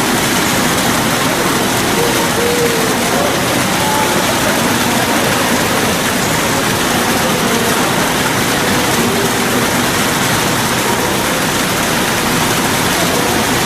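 Steady, loud rushing noise that does not change, with faint distant voices now and then.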